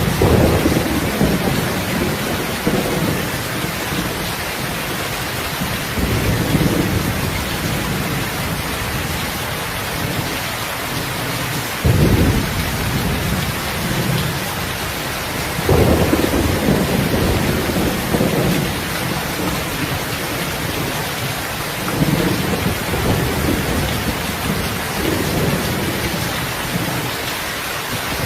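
Steady heavy rain hiss, with low rumbles of thunder swelling and fading every few seconds; two of them break in sharply about halfway through.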